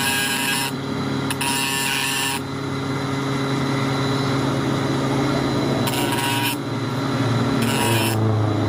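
Machine-shop machinery running with a steady hum, broken by four short bursts of high-pitched hissing noise from the work, during the repair of a broken gear tooth.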